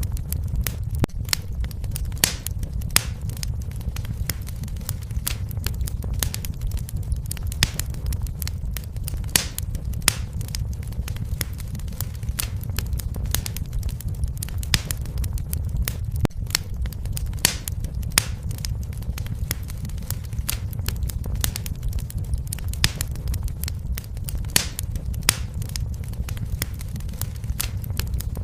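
Wood fire burning, with a steady low rumble of the flames and frequent sharp, irregular crackles and pops.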